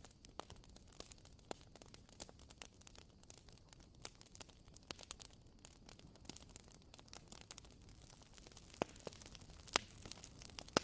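WoodWick wooden-wick candle crackling: a steady run of small, irregular clicks and pops like a tiny campfire. Two louder pops come about nine seconds in, a second apart.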